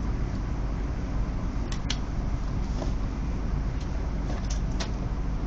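Steady low rumble of cabin noise inside a CRH6F electric multiple unit, with a few sharp clicks: two close together about two seconds in and two more near the end.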